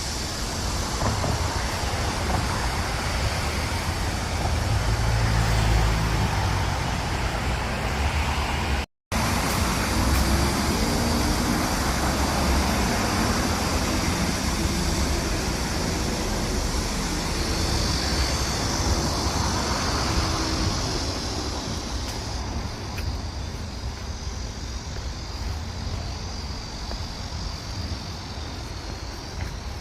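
Road traffic going by: a steady rush of tyres and engines with a low rumble. The sound drops out completely for a moment about nine seconds in.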